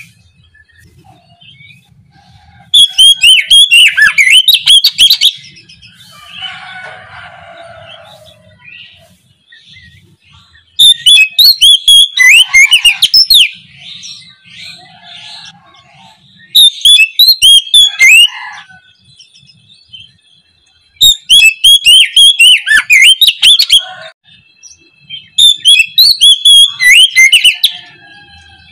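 Oriental magpie-robin (kacer) singing: five loud bouts of rapid, varied high-pitched whistled and chattering notes, each a few seconds long, separated by pauses of several seconds.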